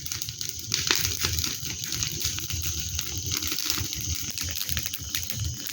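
Wood bonfire crackling, with irregular sharp pops and snaps over a steady hiss.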